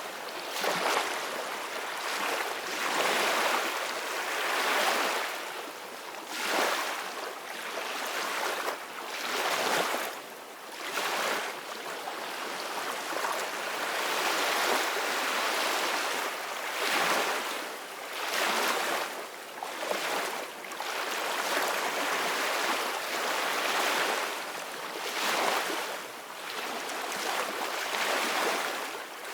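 Ocean waves breaking on a beach, a rushing surf hiss that swells and fades every couple of seconds.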